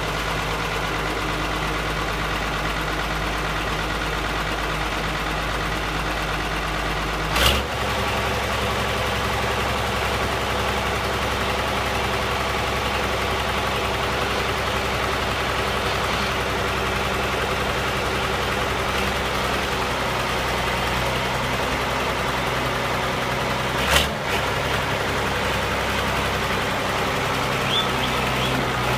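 1994 Ford 8210 4WD tractor's six-cylinder diesel engine idling steadily, its note stepping up slightly about a quarter of the way in. Two short sharp clicks stand out, one as the note changes and another near the end.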